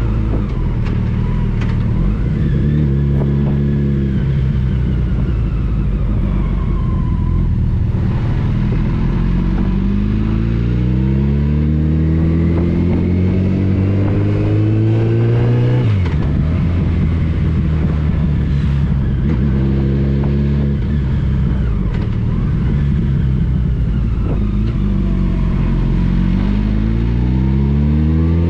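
Motorcycle engine accelerating through the gears: its pitch climbs steadily, drops sharply at a gear change about halfway through, then climbs again toward the end, over a steady low rush of wind.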